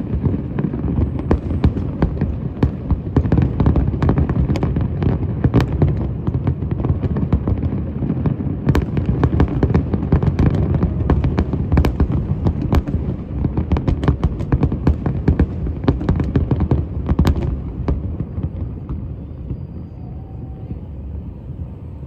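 Fireworks going off in quick succession: a dense run of sharp cracks and bangs over a deep rumble, which thins out and fades over the last few seconds.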